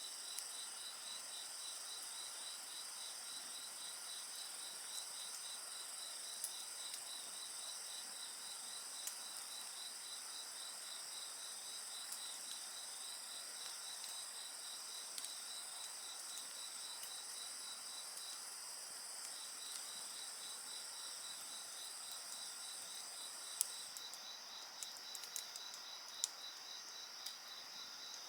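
A chorus of insects chirping steadily, one with a rapid even pulsing, over the sporadic crackle of a wood fire, with a burst of sharper pops near the end.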